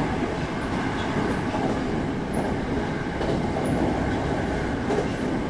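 Steady running noise of an SRT Red Line electric commuter train heard from inside the carriage: wheels rumbling along the track, with a few faint light ticks.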